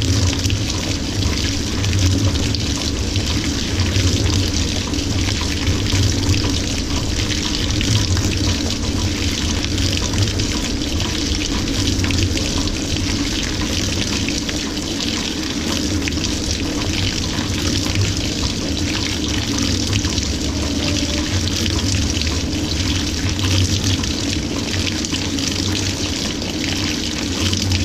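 LG 18 kg top-load washing machine filling its drum at the start of a delicate cycle: a steady rush of water pouring in, with a low hum underneath.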